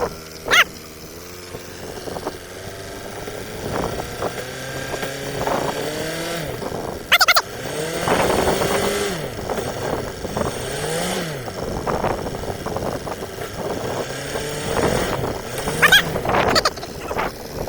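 An engine running, its pitch rising and falling several times as it is revved up and back down. Several sharp clicks sound over it.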